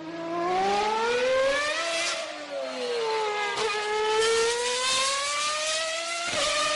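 Batman kids' car running, a whining engine-like tone that rises and falls in pitch as it speeds up and slows down, with a couple of short clicks near the end.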